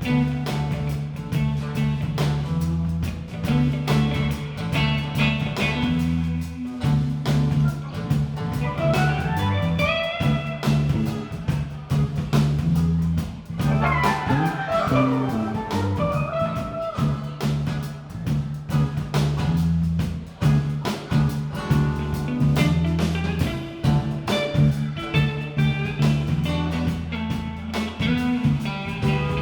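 Live band playing an instrumental passage: guitar over a steady bass line and drums, the guitar notes sliding up and down in pitch around the middle.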